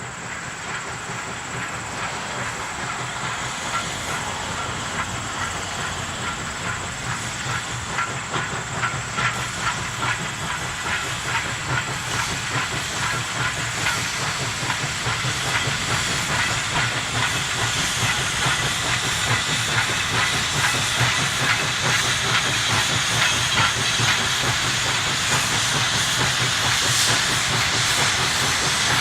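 Narrow-gauge train running with a hissing rush and many small irregular clicks and rattles, growing steadily louder.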